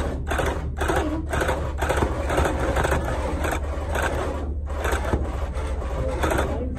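Handheld electric rug-tufting gun running, chattering like a sewing machine in short repeated bursts as it punches yarn into the backing cloth, over a steady low hum.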